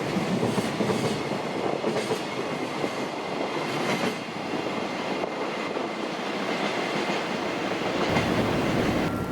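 Freight train passing at speed, a steady rumble of wagons with wheels clacking over rail joints.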